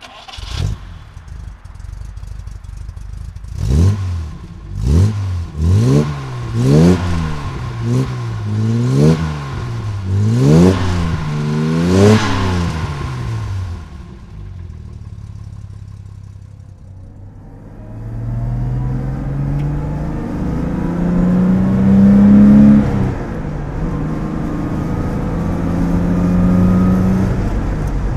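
1967 Jaguar E-type 4.2-litre straight-six engine idling, then revved in a run of about nine short, sharp throttle blips a little over a second apart, each rising and falling in pitch. It settles back to idle, then runs under load with a rising note that drops once, as at a gear change, and carries on steadily.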